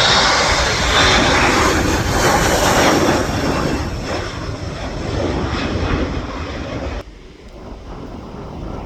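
A passenger aircraft's engines, loud, with a high whine on top at first, as the aircraft passes close by, easing off gradually after about three seconds. The noise drops off suddenly about seven seconds in, leaving quieter wind noise on the microphone.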